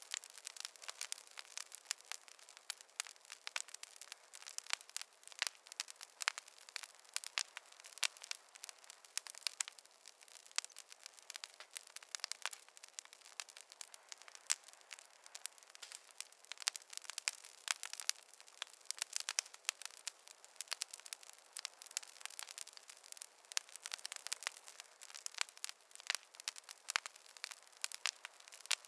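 Burning wood logs crackling in a fireplace: many irregular snaps and pops over a faint hiss, with no low roar.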